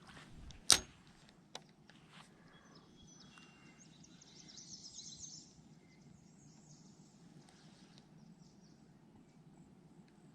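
Quiet outdoor ambience with a steady low background noise. A single sharp click comes about a second in, then a fainter one. Birds chirp for a few seconds around the middle.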